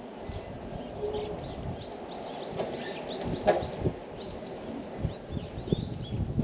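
A bird calling outdoors in a rapid series of short, arched chirps, in two runs. Scattered low knocks go with it, and there is a sharp click about halfway through.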